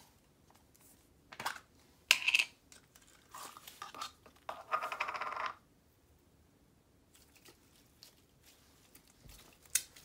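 Short bursts of crackling and clicking as slime and its plastic container are handled, the loudest about two seconds in, a dense crackle around five seconds in, and a sharp click near the end.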